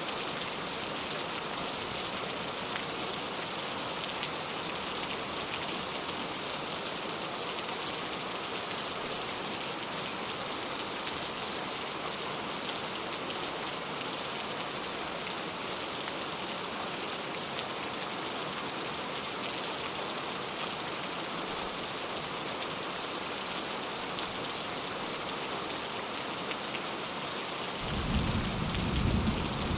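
Steady rainfall, an even hiss of drops. A low rumble of thunder starts near the end and grows louder.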